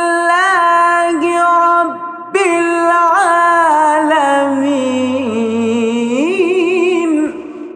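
A man's voice reciting the Quran in melodic tajweed style, drawing out the closing words of the verse in long held notes with trilled ornaments. There is a brief pause for breath about two seconds in, and the recitation ends near the end.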